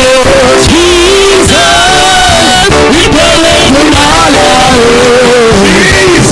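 Worship song: a singer's melody, wavering in pitch, over loud, steady band accompaniment.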